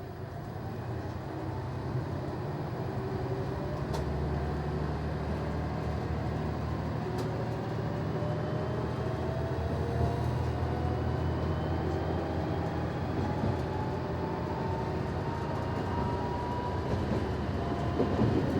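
Noto Railway NT100 diesel railcar running under power, with a low engine rumble and a whine that rises slowly in pitch as the train gathers speed. Two sharp clicks come through early on.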